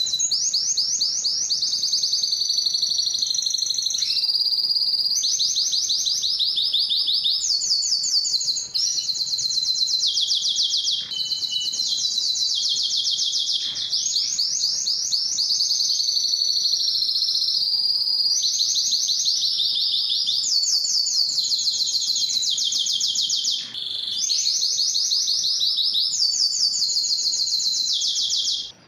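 Spanish timbrado canary singing an almost unbroken high song of fast trilled rolls, each run of rapidly repeated notes lasting a second or two before switching to the next, with only a few short breaks.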